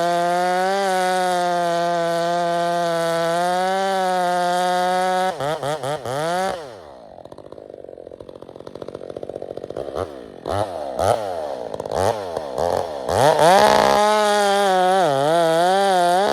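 Stihl 462 C two-stroke chainsaw with an Egan Straight Shot aftermarket exhaust, running at full throttle, then dropping to idle about six seconds in. It is blipped several times and goes back to full throttle for the last couple of seconds.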